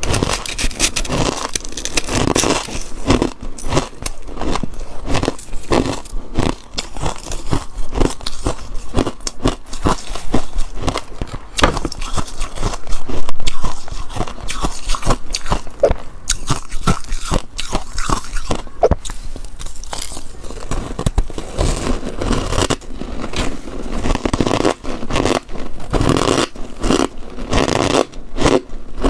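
Freezer frost being bitten and chewed close to the microphone: a dense run of crisp crunches and scrapes, with a louder stretch about thirteen seconds in.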